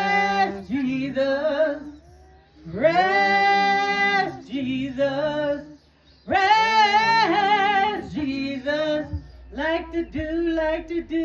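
A woman singing a slow worship song, holding long notes with vibrato, mostly unaccompanied. A low hum comes in about nine seconds in.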